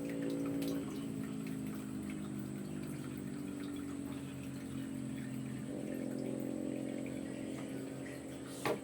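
Liquid being poured through a kitchen strainer, over a steady low hum, with a short clatter near the end.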